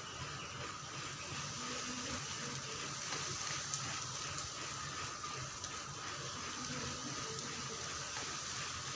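Water running steadily during a pet parrot's bath.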